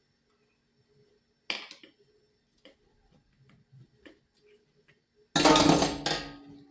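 Kitchen containers being handled and set down: a sharp knock about a second and a half in, a few faint clicks, then a loud clattering rustle just after five seconds in that fades away.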